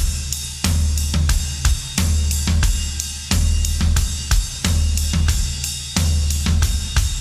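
Rock song intro of drums alone: kick drum, snare and cymbals playing a steady beat.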